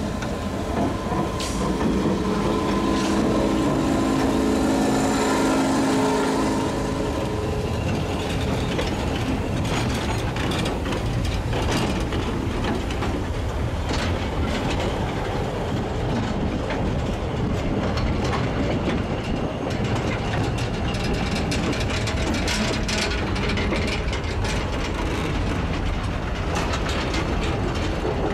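A train running on rails: a steady machine hum for the first several seconds, then a rumble with many sharp clicks and clacks of wheels on the track.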